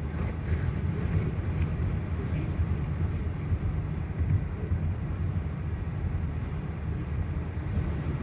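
Steady low rumble of a vehicle, with some wind noise on the microphone.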